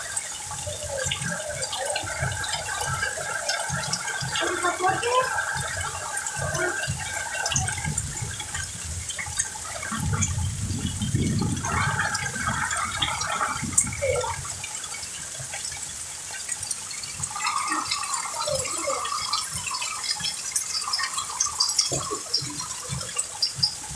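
Heavy rain pouring down, with water running and splashing steadily. A deep rumble swells for about four seconds, starting about ten seconds in.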